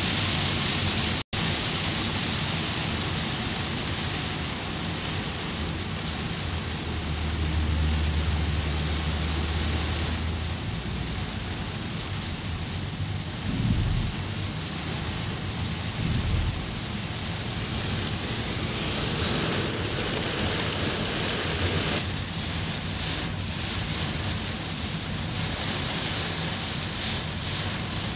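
Heavy rain pelting a moving car, heard from inside the cabin as a steady hiss. A low rumble comes in between about seven and ten seconds in, and two short low thumps sound around the middle.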